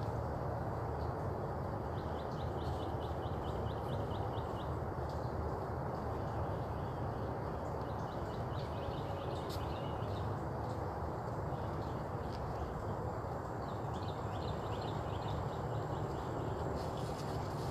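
A small bird giving rapid trills of quick repeated high notes three times, over a steady low background rumble.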